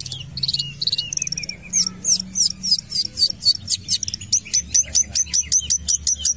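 Long-tailed shrike (cendet) singing in full voice: a fast chatter of short, sharp, high chirps and down-slurred notes that settles into a regular run of about five a second in the second half.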